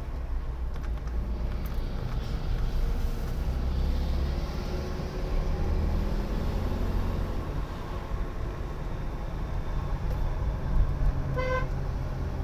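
Steady low rumble of a car driving, with one short car-horn toot near the end.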